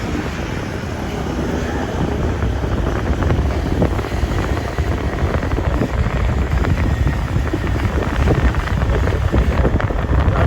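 Wind buffeting the microphone over a low, steady vehicle rumble, getting a little louder in the second half.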